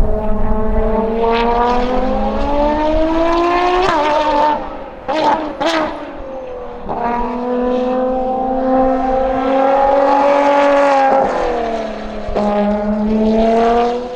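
Ferrari FXX K Evo's V12 at full throttle on track. Its note climbs for about four seconds and drops sharply, with two brief shrill rising-and-falling notes around five seconds in. It then holds a steady high note, dips near the end and climbs again.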